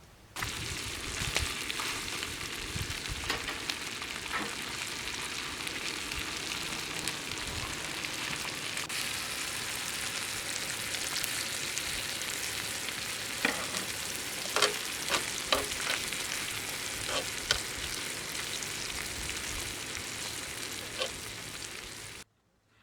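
Ajillo sizzling in hot olive oil in a pan, a steady hiss with scattered sharp pops, several of them close together past the middle. It cuts off suddenly near the end.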